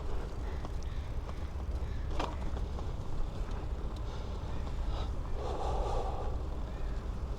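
Steady low wind and rolling rumble on a bike-mounted action camera while cycling, with a few light clicks and one heavy breath out about five and a half seconds in.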